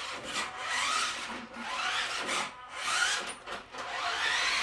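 RC truck's brushed electric motor (Trak Attack/Badzilla motor on a 3S lipo) whining up in repeated short bursts, about once a second. The tyres spin and scrub on a linoleum floor in a burnout.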